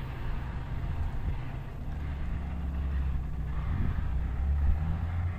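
A train locomotive running with a steady low rumble that swells slightly near the end.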